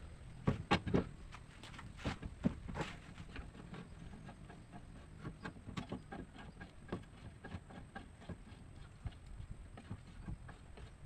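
Irregular clicks and knocks, hard objects striking, the loudest cluster in the first few seconds, over a faint low hum.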